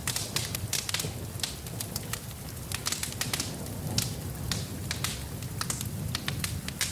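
Wood fire in a fireplace crackling and popping, many sharp snaps a second over a steady low rumble of the flames, with rain mixed in.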